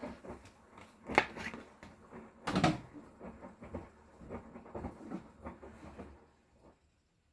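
Hotpoint Core 8 kg inverter-motor washing machine mid-wash: irregular thumps and clicks of the load tumbling in the drum, loudest about a second and two and a half seconds in. The sound dies away near the end.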